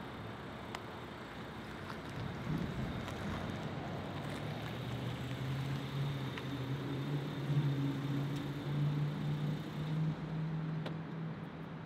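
A Volkswagen Jetta's engine running as the car rolls slowly in. Its low hum grows louder from about two seconds in and eases off near the end.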